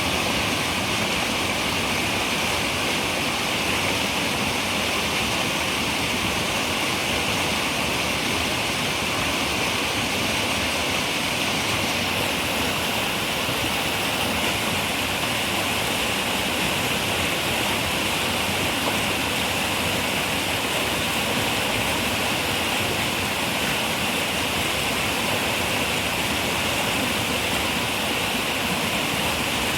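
Running river water: a steady, unbroken rushing hiss.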